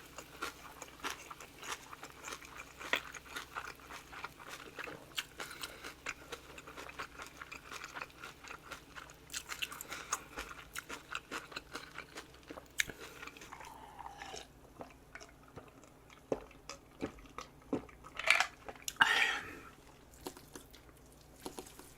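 Close-miked chewing and crunching of food, with many small mouth clicks and bites. Two louder bursts near the end.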